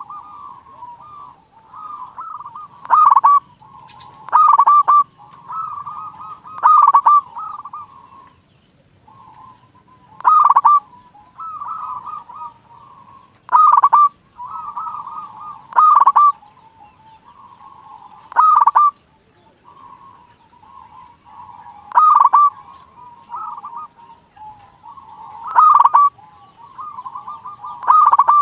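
Zebra doves (perkutut) cooing: soft rolling coos throughout, broken every two to three seconds by a loud, sharp coo, about ten in all.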